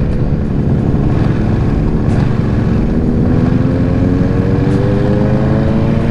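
Ducati Streetfighter V2's L-twin engine running under way with wind rush, its revs climbing slowly over the second half.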